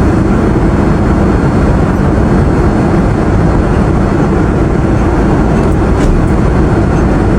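Airliner cabin noise in cruise flight: a steady, even rushing hum, heaviest in the low range, that does not change.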